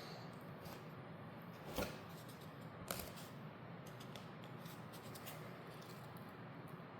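Joint compound being worked onto the edges of a drywall patch: quiet scraping and handling noise, with two sharp clicks about two and three seconds in.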